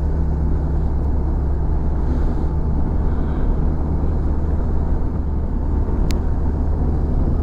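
Motorcycle engine running steadily at a constant road speed, with wind and road noise from the ride.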